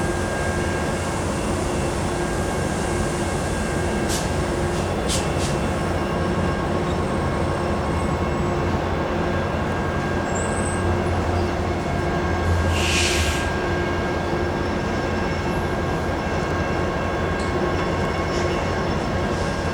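Sounder commuter train running on the rails: a steady, loud rumble with constant tones running through it. There are a couple of sharp clicks about four and five seconds in, and a short hiss about thirteen seconds in.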